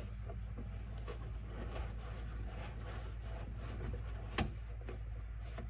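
Faint clicks and scrapes of hands and a tool prying at the clips holding a car emblem on, with one sharper click about four and a half seconds in, over a steady low hum.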